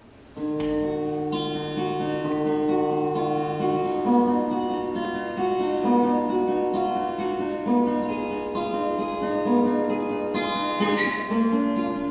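Acoustic guitar playing a song's introduction: plucked notes ringing into one another in a slow, steady pattern, starting about half a second in.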